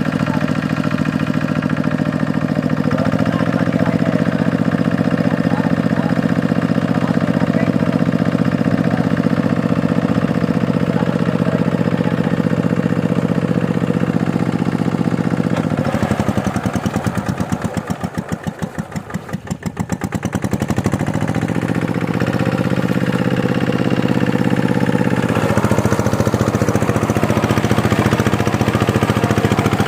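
Two-wheel tractor engine running steadily while ploughing deep mud. About 16 seconds in it is throttled down, its pitch and level sinking for a few seconds, then it revs back up. Near the end it runs harder and noisier.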